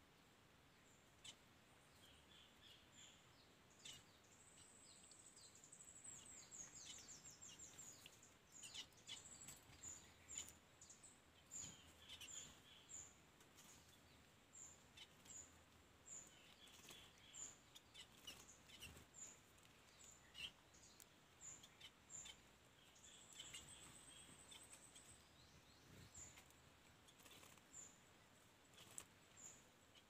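Faint, high-pitched bird chirps repeating a little more than once a second, running twice into quick twittering series, with a lower trill now and then and scattered soft clicks over a low background hiss.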